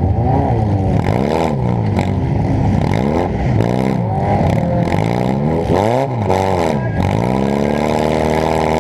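Demolition derby car's engine, heard from inside the car, revving up and dropping back again and again, its pitch rising and falling every second or so, with a longer climb near the end.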